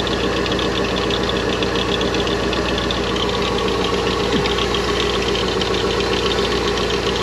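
A 1997 Corvette's LS1 V8 idling steadily with the accessory belt turning, heard close from underneath, with a dense, even ticking texture running through it. The owner judges the A/C belt tensioner bad and in need of replacing.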